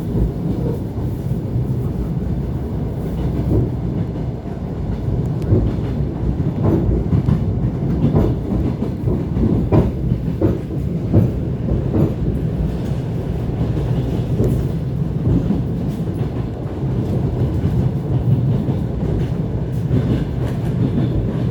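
ET2 electric multiple unit running at speed, heard from aboard: a steady rolling rumble of wheels on rail, with irregular clicks and knocks of the wheels over rail joints, thickest in the middle of the stretch.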